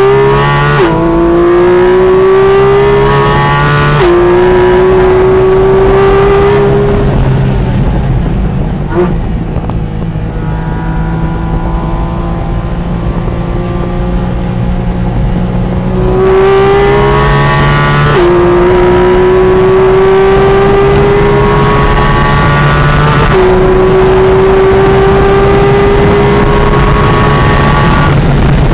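Car engine heard from inside the cabin on a race-track lap, accelerating hard with its pitch climbing through the gears. It shifts up twice in the first four seconds, eases off and runs lower for several seconds through a corner, then pulls hard again with two more upshifts while the car reaches high speed on the straight.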